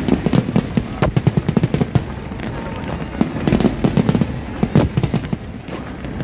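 Fireworks going off in quick succession, a dense crackle of many sharp pops and bangs that comes in uneven clusters.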